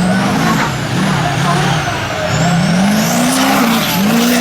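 Mega truck engine revving hard, its pitch rising and falling several times as the throttle is worked, over a steady rush of noise.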